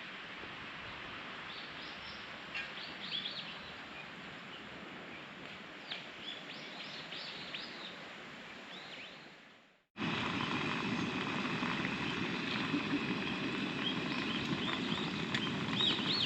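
Small birds chirping in short calls over a steady outdoor background hiss. About ten seconds in the sound cuts to a louder stretch of the same birdsong and hiss.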